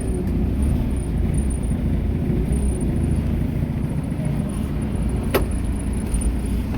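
Steady low rumble of a vehicle on the move. There is a single sharp click a little over five seconds in.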